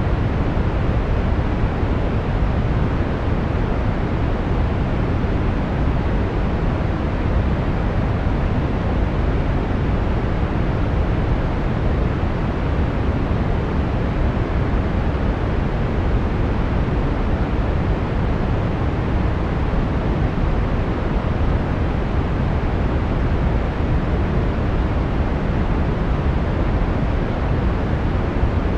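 Steady brown noise: an even, unchanging rushing hiss weighted heavily toward the bass and rolling off in the treble.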